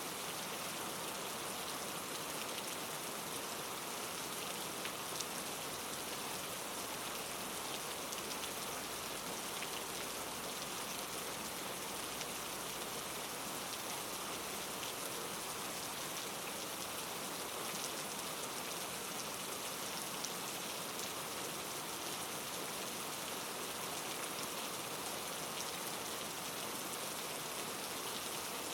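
Steady rainfall, an even hiss of rain with the patter of individual drops striking a surface.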